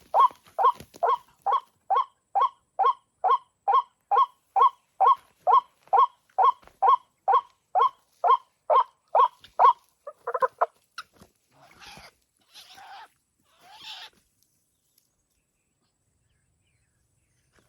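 White-breasted waterhen (ruak-ruak) calling: a fast, even series of short nasal notes, about two a second, for some ten seconds. It ends in a brief jumbled burst, followed by a few faint rustles.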